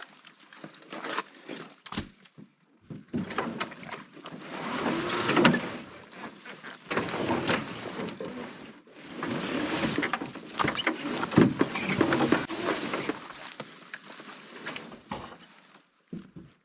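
A canoe being dragged through bog mud: the hull sliding and scraping in a series of pulls of a few seconds each, with short pauses between.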